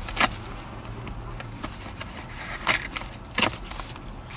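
Items and packaging being handled: three short, sharp clicks or rustles over a low steady hum.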